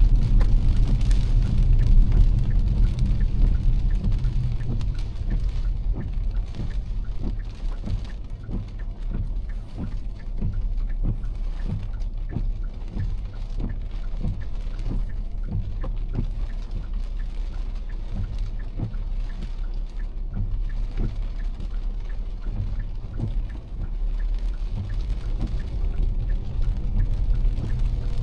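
Heavy rain striking a moving car as many sharp drop ticks, over the steady low rumble of the car and its tyres on a wet road.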